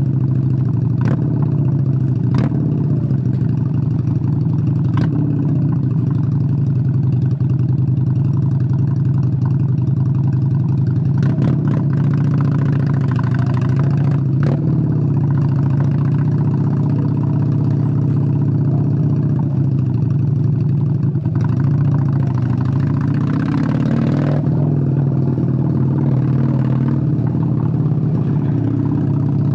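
Honda Steed 600 V-twin motorcycle engine running at a steady, even pitch, with a few sharp clicks in the first half and a short swell of wider noise near the end.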